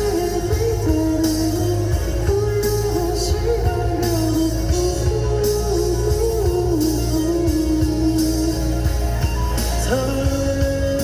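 Live rock band playing: drum kit, bass and electric guitars under a wavering melodic line, at a steady loud level.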